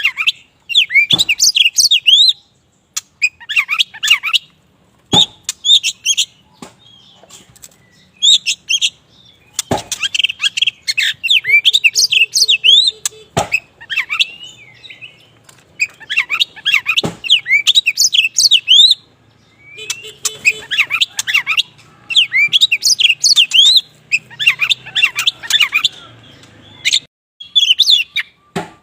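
Black-form Oriental magpie-robin (kacer wulung) in full song: repeated bouts of rapid, sweeping high whistled phrases, each a second or a few long, with short pauses between. A few sharp clicks fall in the pauses.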